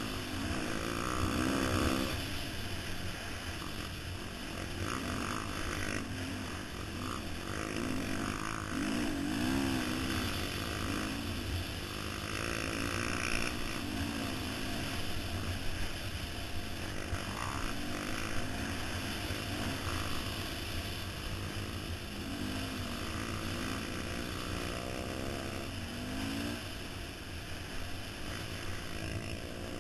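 Dirt bike engine running, its pitch rising and falling over and over as the throttle is opened and closed.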